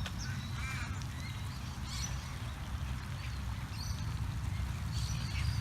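Footsteps on a footbridge over a steady low rumble, with birds chirping and calling several times in the background.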